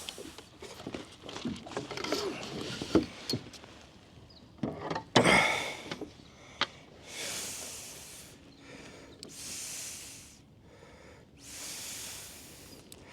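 Handling noises from a freshly landed bream on a kayak: scattered knocks, clicks and rubbing, with a louder rustle about five seconds in, then three breathy hisses of about a second each.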